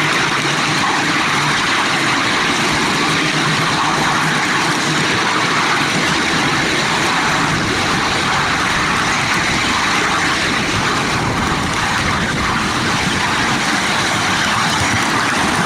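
Steady running noise of a 7¼-inch gauge miniature train heard from on board while it is moving along the track.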